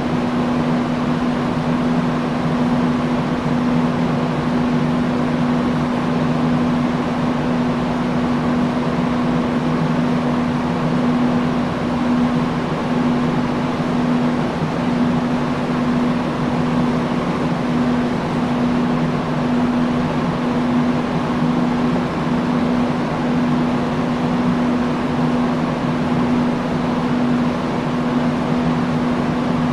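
Industrial fan running steadily: a constant rush of air with a steady low hum underneath.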